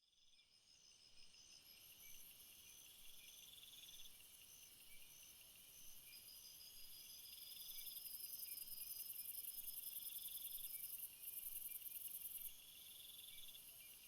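Faint, high-pitched insect chorus, several insects chirping and trilling at once, like crickets. A short trill recurs every couple of seconds over steady fast pulsing, and a higher buzz swells past the middle, then drops off sharply near the end.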